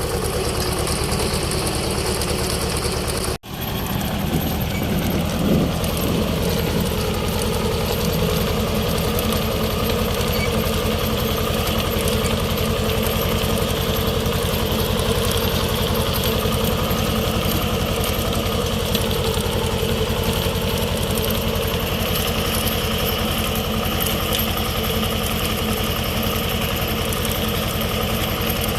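T-25 tractor's two-cylinder air-cooled diesel engine running steadily, with a brief dropout in the sound a little over three seconds in.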